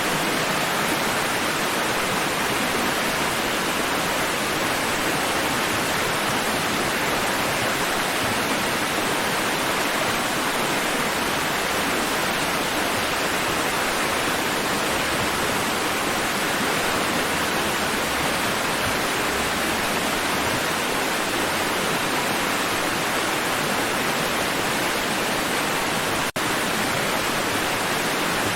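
Water washing against rocks, heard as a steady, even rush with no distinct swells. There is one split-second dropout near the end.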